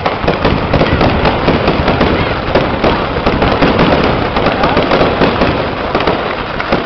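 Fireworks going off in a dense, continuous barrage of rapid cracks and bangs.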